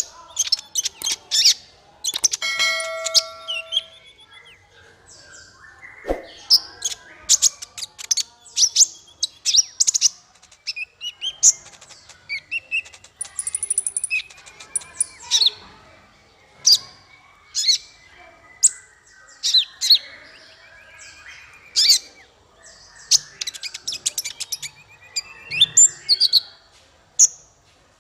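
Songbird chirps, rapid trills and sharp whistles in quick, varied phrases, with one held ringing note about two seconds in: a masteran bird-song tutor recording used to teach caged songbirds.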